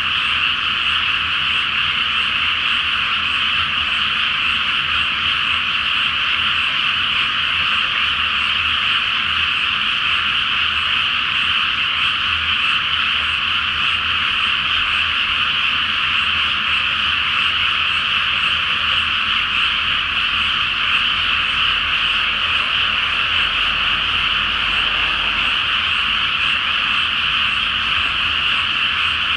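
A large chorus of many frogs calling at once, merging into a dense, steady, high-pitched din that never lets up.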